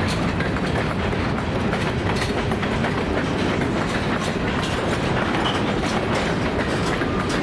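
Freight train cars rolling past with a steady rumble, their wheels clicking over rail joints at irregular intervals.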